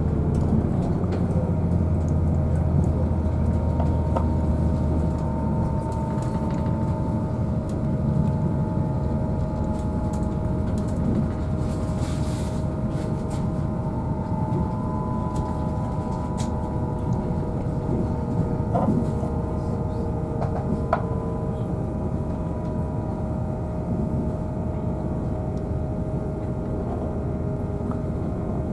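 Cabin sound of an East Midlands Trains Class 222 Meridian diesel-electric unit under way: the underfloor diesel engines drone steadily under the rumble of wheels on rail, with steady whining tones above. The deep engine note eases off about six seconds in, and a few light clicks and knocks come and go.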